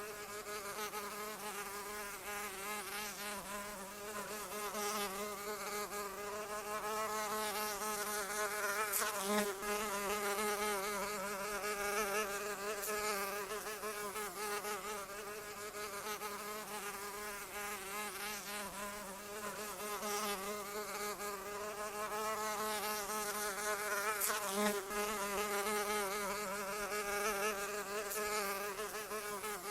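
Flying insect's wings buzzing continuously, a wavering hum with many overtones that swells briefly twice.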